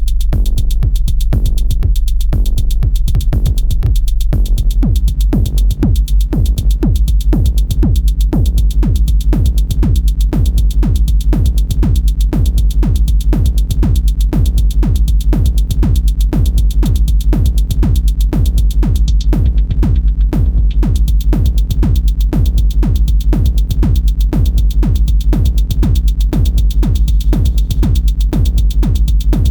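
Elektron Syntakt drum machine playing a steady, fast electronic drum pattern over a continuous deep bass. The highest part drops out for about a second around twenty seconds in.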